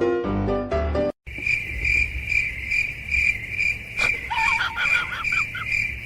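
Piano music cuts off about a second in. A cricket then chirps steadily, a single high tone pulsing about twice a second. A quick run of short high calls, sliding up and down in pitch, joins it around the middle.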